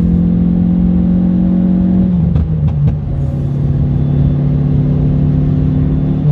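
Stage 2 Audi A1's engine and custom straight-through exhaust, heard from inside the cabin while driving. The steady engine note drops in pitch about two seconds in, with a few sharp clicks, then holds steady at the lower pitch.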